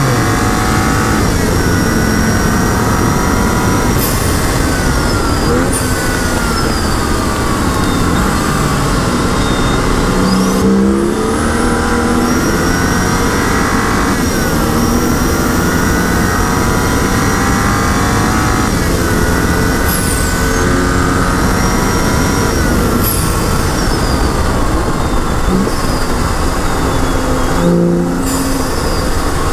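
2011 BMW 135i's turbocharged straight-six under hard track driving. Its pitch climbs over several seconds and drops suddenly at each gear change or lift, several times over, with steady wind and road noise underneath.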